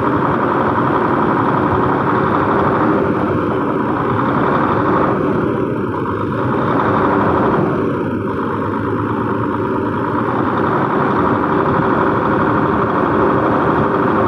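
Isuzu 6WF1 diesel engine running steadily at raised revs, with its cooling fan now turning along with the crankshaft: the fan clutch, refilled with silicone oil, is engaging and no longer lets the fan lag behind.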